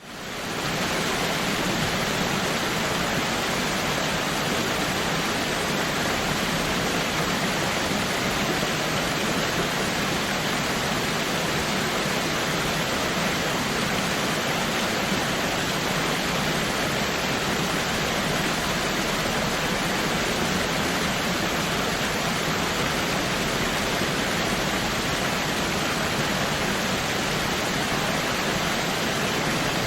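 Waterfall: a steady, unbroken rush of falling water, fading in over the first second.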